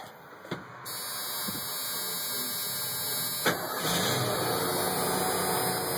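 1988 Ford F-350's 351 Windsor V8 being started: the starter cranks, the engine catches after a few seconds and settles into a steady idle.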